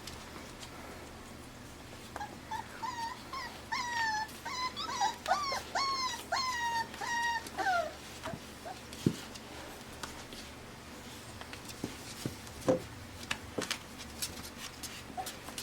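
Five-week-old Pembroke Welsh Corgi puppies whining and whimpering in a quick string of short, high, bending calls for several seconds, followed by scattered light taps and clicks.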